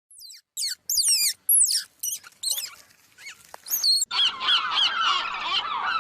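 High-pitched animal calls: quick falling chirps and squeaks, then from about four seconds in a dense chorus of many chirping calls at once.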